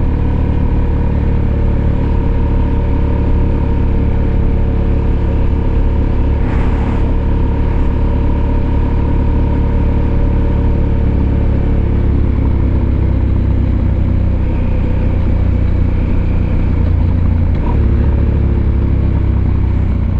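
Husqvarna Norden 901's parallel-twin engine running steadily under way on a ride, its note easing down a little past the midpoint.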